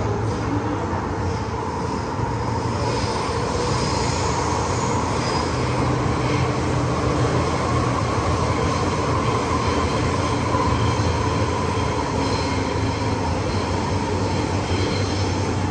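MTR M-Train underway, heard from on board: a steady rumble of wheels on rail with a low hum and a continuous whining tone.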